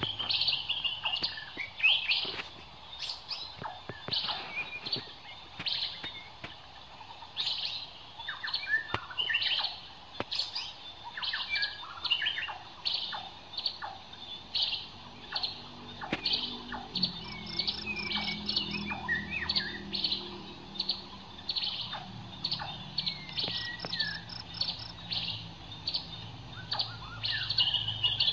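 Birds chirping: a steady run of short high chirps, with a few brief downward whistles among them.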